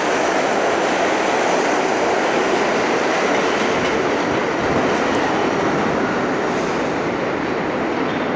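New York City subway train running along the platform, a steady loud rumble of wheels on rail and motors with no break.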